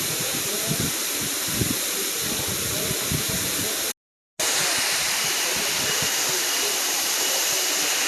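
Waterfall rushing in a steady, dense wash of water noise, broken by a sudden split-second dropout to silence about halfway through, after which it resumes slightly brighter.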